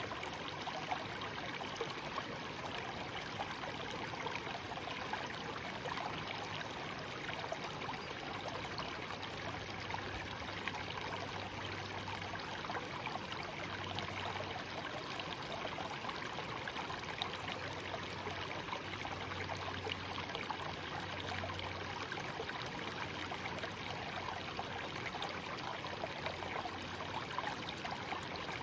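Small stream babbling: a steady rush of running water with small splashes and gurgles throughout.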